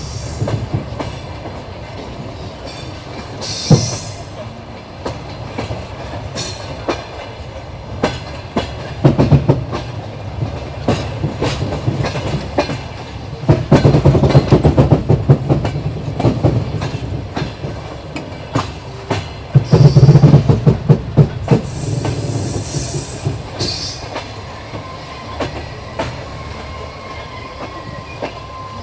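Passenger train running, its wheels clattering over rail joints in uneven clusters of knocks over a steady rumble. There are a couple of brief hissing squeals, and a thin whine comes in near the end.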